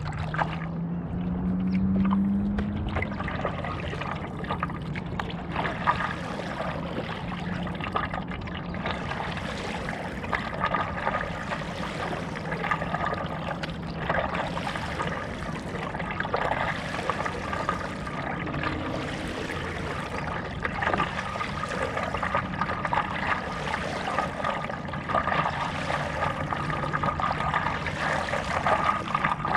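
Stand-up paddleboard paddle dipping and pulling through lake water in regular strokes, about one every two seconds, with water trickling and dripping off the blade between strokes.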